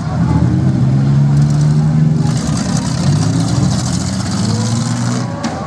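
Several demolition derby cars' engines running and revving, their pitch rising and falling as the cars get moving around the arena.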